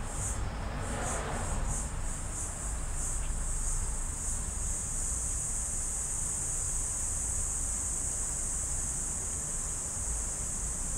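Insects chirping in the background: a high-pitched chirp pulsing a few times a second that turns into a continuous trill about four seconds in, over a steady low hum.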